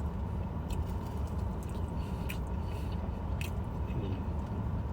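Someone chewing a mouthful of fried fish, with a few short, soft mouth clicks, over a steady low rumble.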